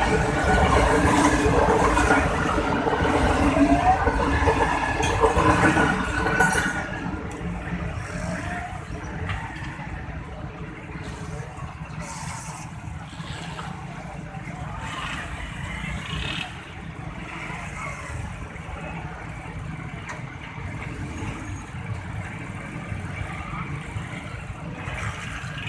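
Road traffic and vehicle engines with some voices mixed in, loudest for about the first seven seconds, then settling to a lower, steady rumble.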